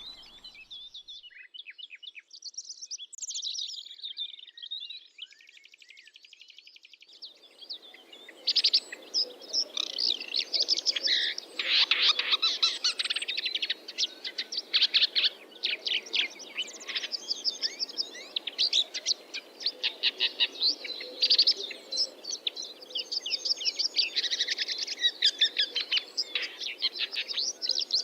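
Small birds chirping and singing: a few scattered calls and a fast trill at first, then, from about eight seconds in, a busy chorus of quick repeated chirps over a steady low background noise.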